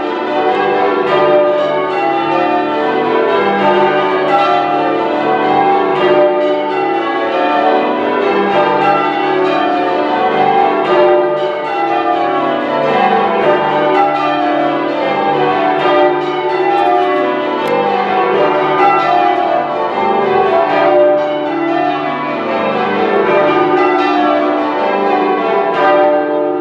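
A ring of ten church bells being change rung: the bells strike one after another in quick succession, and each row steps down the scale in a repeating pattern.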